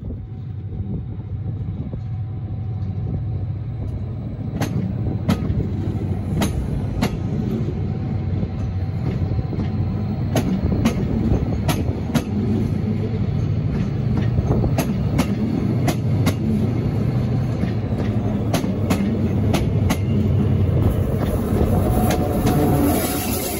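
TransPennine Express locomotive-hauled train, a Class 68 diesel with Mk5a coaches, moving slowly along the platform. The wheels click in pairs over rail joints above the steady low rumble of the locomotive's diesel engine, which grows louder near the end as the locomotive draws level.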